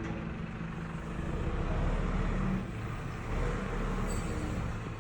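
Motor vehicle running on a road: steady engine hum and road noise with a strong low rumble, swelling a little about two seconds in.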